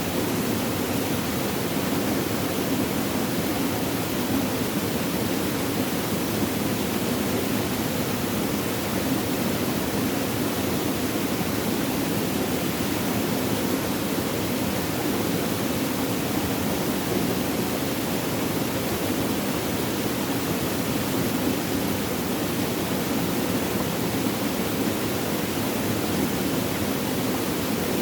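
Flowing water, a steady even rushing with no breaks or separate splashes.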